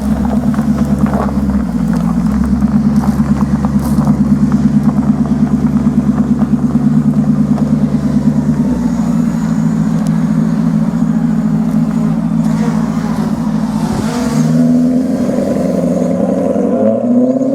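A car engine running loudly close by, pulsing steadily, with the pitch stepping up and down and rising twice in short revs near the end.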